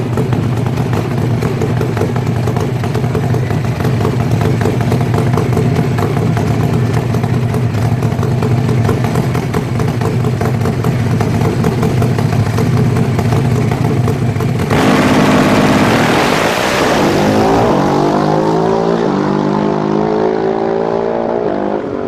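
Super Twin Top Gas drag-racing motorcycle engine idling steadily, then launching at full throttle about two-thirds of the way through. The pitch climbs again and again through the gears as the bike pulls away down the strip, and it fades near the end.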